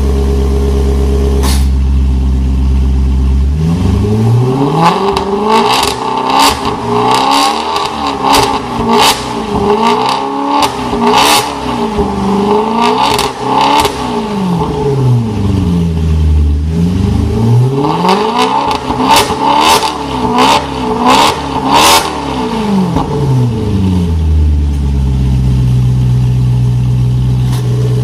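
Maserati Quattroporte 4.2 V8 breathing through a Larini Club Sport valved sports exhaust, revved while stationary. It idles for a few seconds, then comes a long series of quick blips of the throttle up and back down, with sharp cracks from the exhaust among them. Near the end it settles back to a slightly raised idle.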